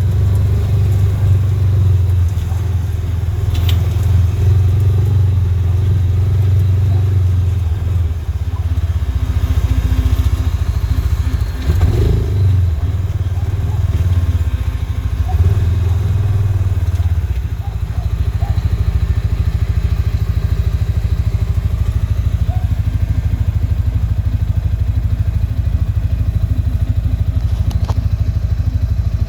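Engine running steadily close to the microphone, a low rumble that eases slightly about two-thirds of the way through.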